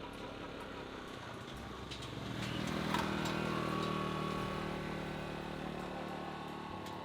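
A motor vehicle engine passing by, growing louder to a peak about three seconds in, then slowly fading.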